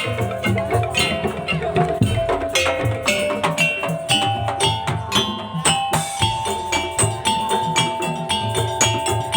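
A Madurese daul (tong-tong) percussion ensemble playing: dense, steady drum and wooden slit-drum strokes, with a held melody line above that steps from note to note.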